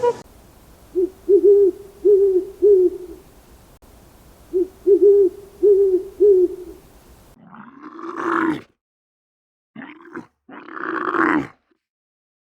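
Animal calls: two runs of four low, evenly spaced hoots, then a different animal giving three louder, rough calls, the first and last about a second long.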